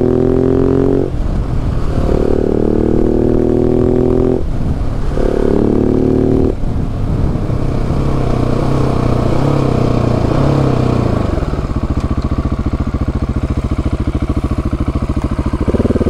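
KTM 690 SMC-R's single-cylinder engine accelerating, its pitch climbing and broken three times by upshifts in the first seven seconds. The revs then fall away as the throttle is rolled off, settling into a low, steady run, and pick up again near the end.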